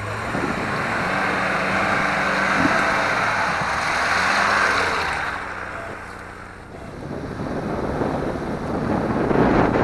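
Off-road vehicle engine running under load in deep mud, mixed with heavy rushing noise. The noise swells over the first few seconds, dips about two-thirds through, then rises again.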